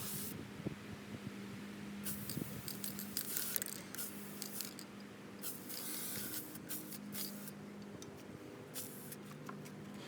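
Several short bursts of spraying hiss, irregularly spaced, over a steady low hum.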